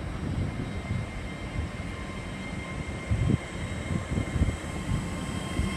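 Hull Trains Class 802 bi-mode train (unit 802302) running slowly at the platform: a steady high whine over a low, uneven rumble.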